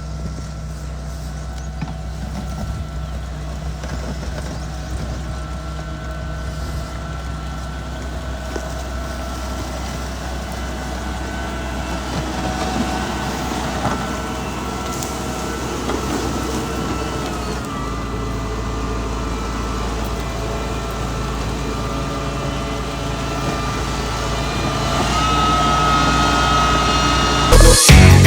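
Diesel engine of a Mitsubishi MG430 motor grader running steadily under work, with a steady whine above the engine hum that grows a little louder near the end. Loud music cuts in just before the end.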